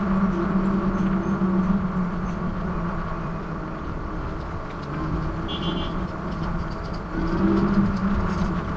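Wind and rumble on the microphone of a moving bicycle, with a steady low hum that fades in the middle and comes back near the end. A brief high tone sounds about five and a half seconds in.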